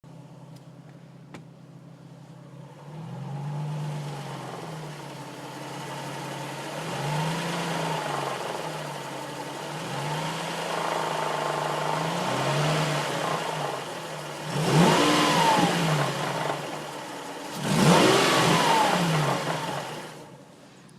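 Nissan 350Z's V6 engine idling and revved in about four gentle blips, then two sharper, louder revs near the end, after which it drops back. The owner hears a slight rattle between 1,000 and 1,500 rpm and wonders whether it is just normal clutch chatter.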